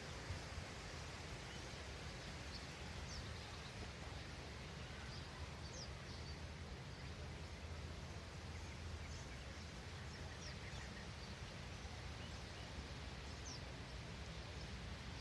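Outdoor ambience with a steady hiss and low rumble, and scattered short, high bird chirps every second or two.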